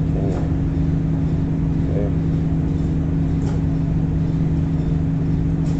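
Steady low hum of an indoor shooting range's ventilation system, two constant tones over a low rumble, with a few faint clicks.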